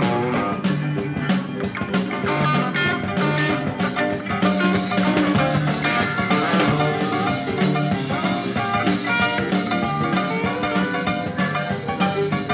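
Blues-rock band recording playing an instrumental passage: guitar over a steady beat, with no vocals.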